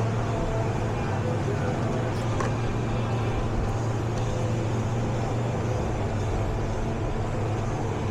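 Steady low engine hum, even in level throughout.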